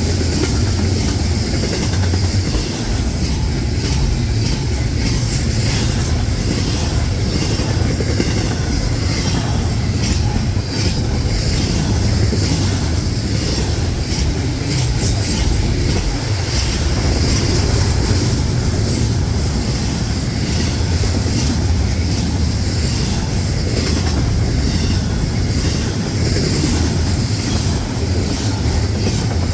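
Intermodal freight train's cars rolling past on the rails: a steady, loud rumble with wheels clicking over the rail joints.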